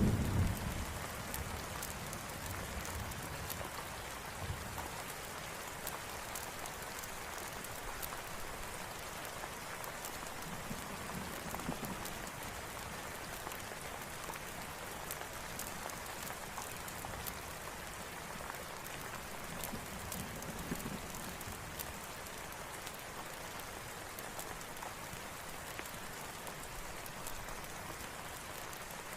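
Steady rain falling, with the tail of a low thunder rumble dying away in the first second and scattered faint sharp ticks over the hiss.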